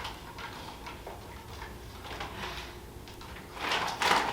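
Crunching of shrimp chips being chewed: faint scattered crackles at first, then louder irregular crunches near the end.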